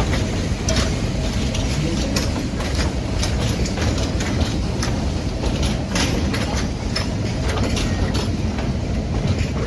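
Narrow-gauge train rolling along the track: a steady rumble with frequent irregular clicks and rattles from the wheels and cars.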